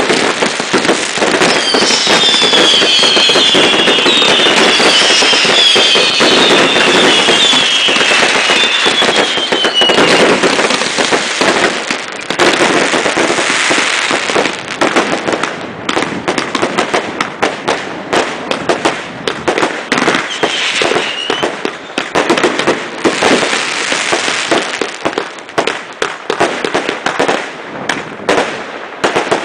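Consumer fireworks barrage firing: a dense run of bangs and crackle, with several whistles falling in pitch during the first ten seconds. The volley thins to separate bangs near the end.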